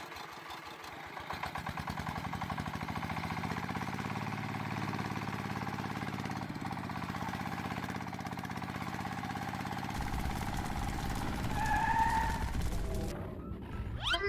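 A small motor starts up about a second in and runs steadily with a rapid, even beat. Its sound shifts about ten seconds in, growing heavier in the low end, with a brief higher tone near the end.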